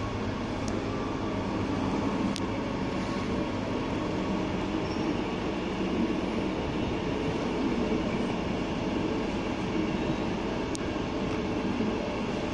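Queensland Rail Tilt Train humming steadily, with a few faint clicks.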